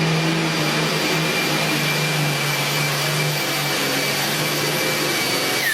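International Harvester pulling tractor engine running hard at full throttle: a loud, steady rushing noise with a high whine over it. It cuts off suddenly near the end.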